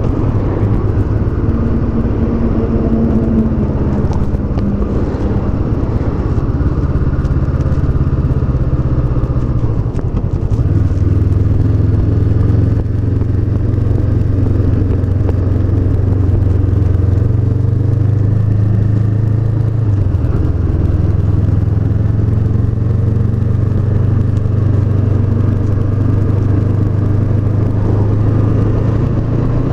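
Honda CB500X's 471 cc parallel-twin engine running steadily while the motorcycle is ridden. About ten seconds in the engine note changes and then holds steady and louder, with a brief dip in pitch about twenty seconds in, like a gear change.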